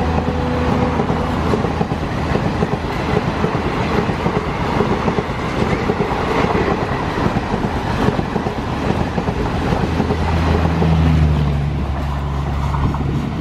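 Coaches of a passenger express train rushing past at speed, a loud, dense rumble and rush of wheels on rail. The WDG3A diesel locomotive's engine drone fades in the first second. Near the end, the steady hum of the rear power car's diesel generator passes by.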